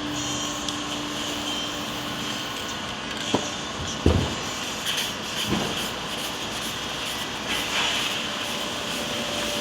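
A steady mechanical hum and hiss, with a faint steady tone that stops about two and a half seconds in and a few light knocks around the middle.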